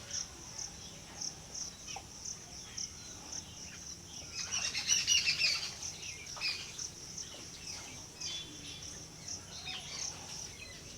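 Small birds chirping, with a louder flurry of chirps about halfway through, over an insect's steady high pulsing trill.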